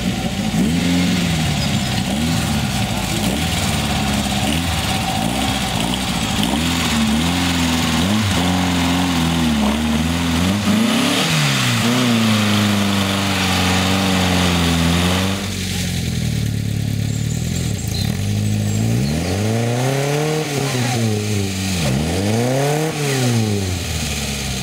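Air-cooled VW Beetle flat-four engine revving and varying under load as the car climbs a steep, loose slope. After about fifteen seconds a different engine, from an open vintage two-seater sports car, takes over, revving up and falling back in a few big surges as it climbs.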